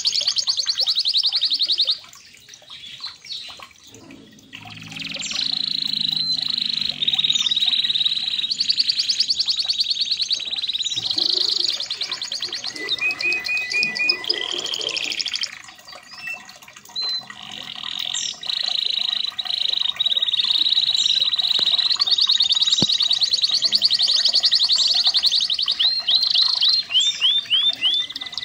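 Red canary singing: long runs of fast trills and rolls with rapidly repeated notes, broken by two short pauses, about two seconds in and again past the middle.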